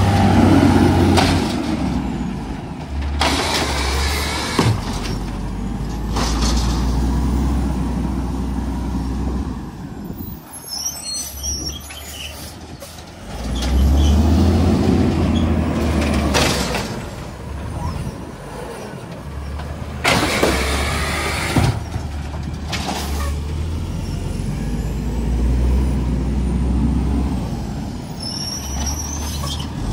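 Garbage truck's diesel engine running and revving up and back down three times, with short bursts of air hiss from the brakes in between.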